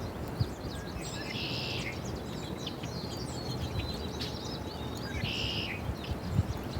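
Small birds chirping and calling, with many quick high chirps and two short, dense song phrases, one about a second in and another about five seconds in. A steady low rumble lies underneath.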